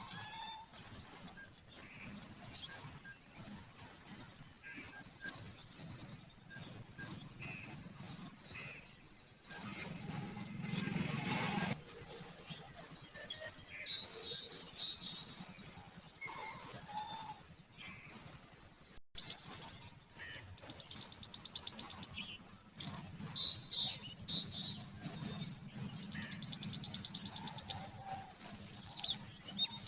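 Budgerigars chirping: a steady run of short, high, sharp cheeps at an uneven pace, with a buzzy rattling trill twice, about two-thirds of the way through and near the end. A brief rustling noise comes about ten seconds in.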